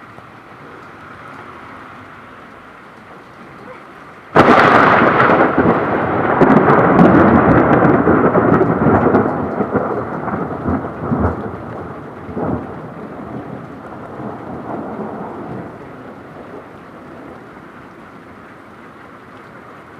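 Steady rain, then about four seconds in a sudden sharp thunderclap from a close lightning strike. It rumbles loudly with crackles for several seconds and slowly fades back under the rain.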